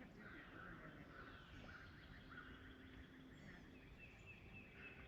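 Near silence with faint bird chirps, a few quick falling calls among them.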